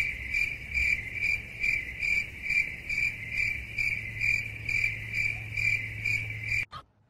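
Cricket chirping steadily, a high tone pulsing about three times a second over a low hum. It cuts off suddenly near the end.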